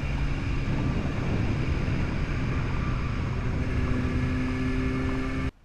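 Motorcycle running at road speed, with wind rushing over the microphone and a steady engine hum; it cuts off suddenly near the end.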